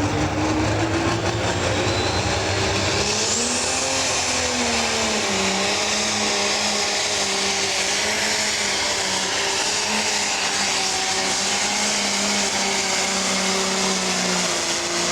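Pro stock pulling tractor's diesel engine running at full throttle under load on a pull. About three seconds in, a high whine climbs steeply and then holds, and the engine pitch settles and stays mostly steady.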